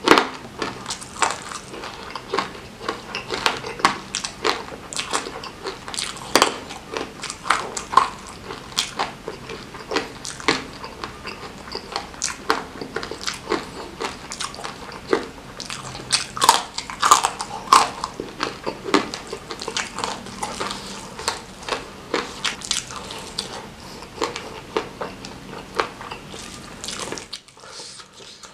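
Close-miked chewing of a mouthful of rice and meat: wet, irregular smacking and clicking, several times a second. The sounds drop away abruptly about a second before the end.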